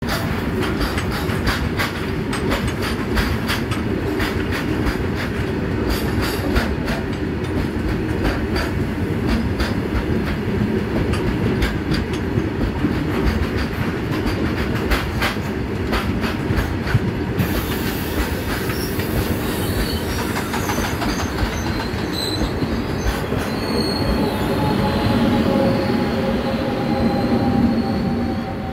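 A train running past on the track, wheels clattering and squealing on the rails, loud and continuous. A thin, slowly falling whine comes in near the end.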